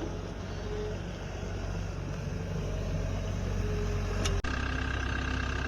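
Engine of a farm machine running steadily with a low hum. About four seconds in it breaks off abruptly and carries on at a slightly different tone.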